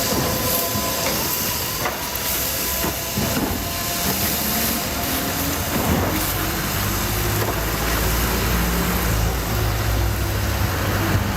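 Steady, loud background noise with a hiss, joined about halfway through by a low motor hum whose pitch slowly rises.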